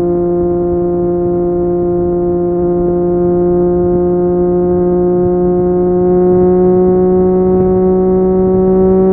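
Triumph Street Triple 765 RS inline-three engine through an Akrapovic exhaust, held at steady revs that climb slowly and evenly as the bike gains speed.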